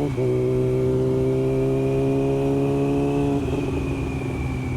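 Motorcycle engine running at steady speed under throttle, with a brief dip right at the start like a gear change, then easing off the throttle about three and a half seconds in, leaving wind and road noise.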